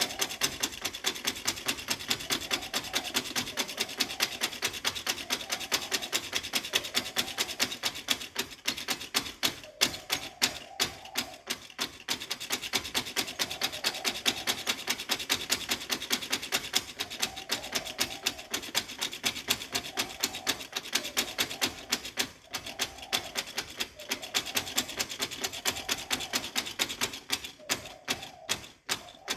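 Rapid, even clicking with a scraping edge, several strokes a second and steady throughout: hand tool work on small toy-building parts.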